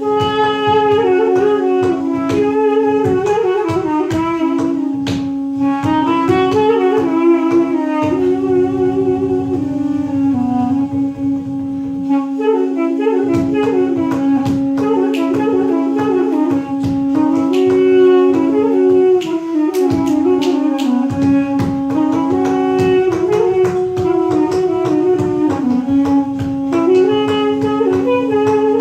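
Balaban and duduk playing live: one reed instrument holds a steady drone note while the other plays an ornamented, winding melody just above it.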